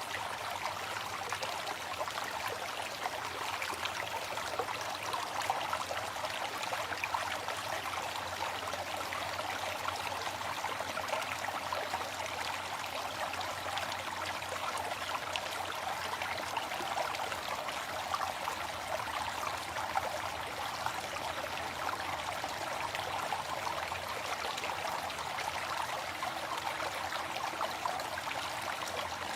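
Waterfall: falling water splashing steadily, an even rushing hiss with no change in level.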